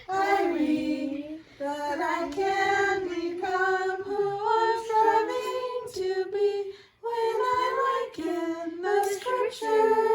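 A woman and children singing a Primary song together, holding long notes, with brief breaths between phrases.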